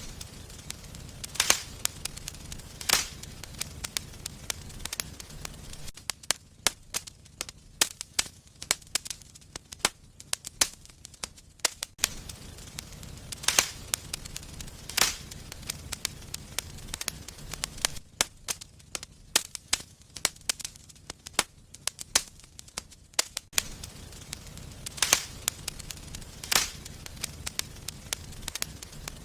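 Wood fire burning in a fireplace, crackling with many small sharp pops and a louder snap every few seconds, over a low steady rumble.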